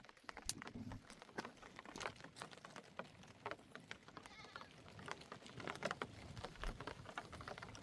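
Faint bleating from a flock of sheep and goats, a few short calls in the second half, over many light scattered ticks and taps.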